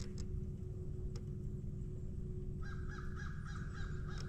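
A bird gives a harsh, rapidly pulsed call starting about two-thirds of the way in, over a steady low rumble and faint hum.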